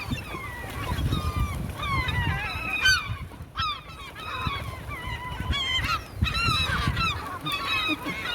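Several gulls calling at once, a dense run of short, harsh, repeated squawks that overlap one another, with a low rumble underneath.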